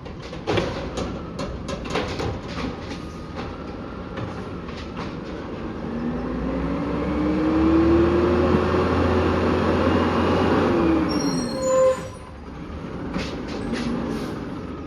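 Automated side-loader garbage truck at work: clunks and knocks, then the engine revs up with a rising whine as the hydraulic arm works, ending in a brief loud squeal and clatter before it settles back to idle.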